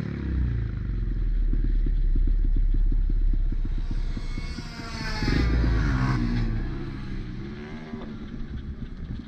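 Pit bike engine running hard at race pace. About four seconds in, a bike revs up and passes close: the pitch climbs, is loudest around five to six seconds in, then drops away.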